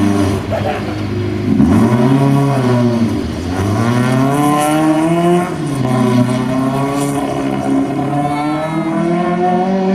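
Peugeot 306 rally car's engine revving hard while it turns around a marker post and accelerates away. The pitch climbs, falls away about three seconds in, then climbs again with short dips as the driver shifts or lifts.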